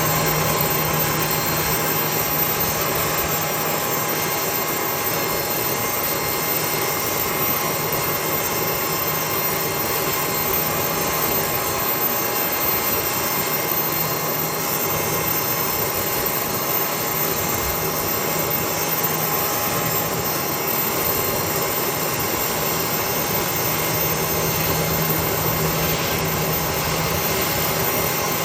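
Jet engines of a landing Airbus A320-232 airliner (IAE V2500-series turbofans): a steady, even rush of noise with several held whining tones, unchanging in level throughout.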